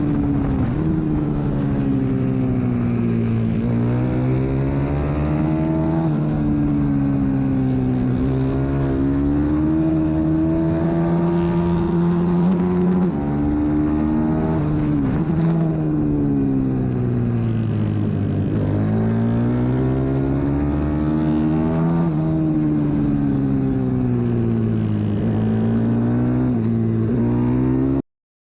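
Racing pit bike's 125 cc single-cylinder engine heard from onboard, its pitch repeatedly climbing under hard acceleration and dropping as the rider backs off for corners. The sound cuts off abruptly near the end.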